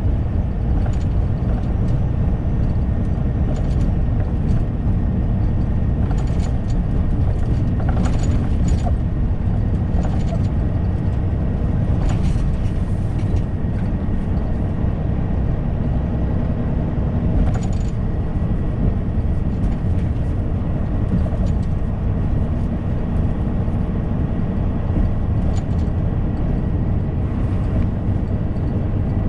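Inside a lorry's cab while driving: steady low engine and road rumble, with a few short clicks or rattles now and then.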